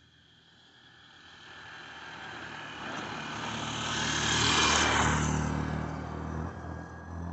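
A motor vehicle driving past: its engine hum and road noise grow louder, peak about halfway through, then fade away.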